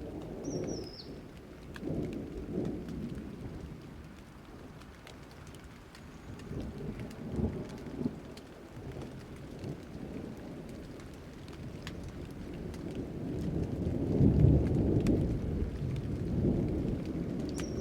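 Thunderstorm: thunder rumbling in deep swells, loudest about fourteen seconds in, over scattered raindrop ticks. A short high falling chirp comes near the start and again near the end.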